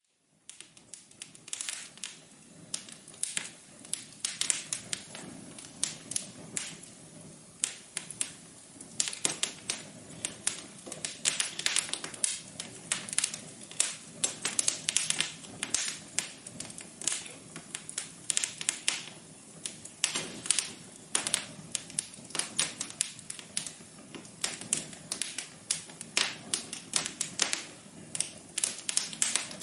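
Wood fire crackling: a dense, irregular run of sharp snaps and pops over a soft steady hiss, fading in over the first couple of seconds.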